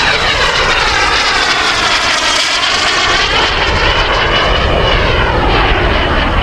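Turbine-powered RC model jet flying past: a loud, steady rushing whine, with a high tone that drops slightly as the model goes by.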